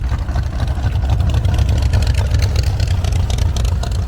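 Car engine running with a steady low rumble and a rapid, even pulsing.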